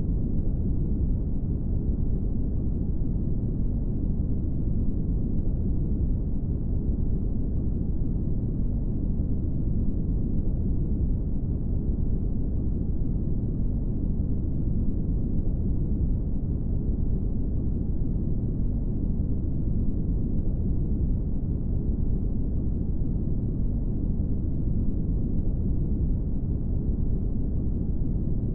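Steady brown noise: an even, deep rumbling hiss with no high end, unchanging throughout.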